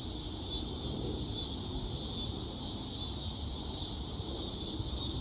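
Steady insect chorus, a continuous high even buzz, over a low rumble of wind on the microphone.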